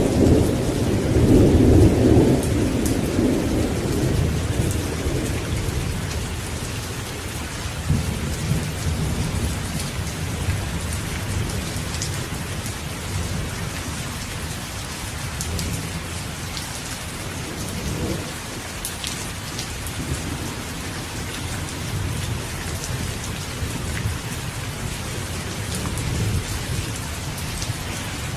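Steady heavy rain with thunder: a loud low rumble of thunder in the first couple of seconds rolls away, and fainter rumbles come back now and then under the even hiss of the rain.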